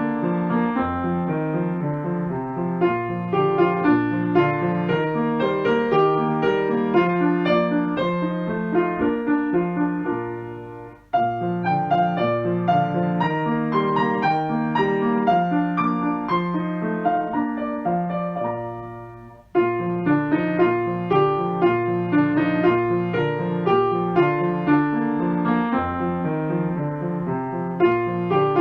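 Background piano music: a gentle run of steady piano notes over chords. It fades down and starts again abruptly twice, about eleven and nineteen seconds in.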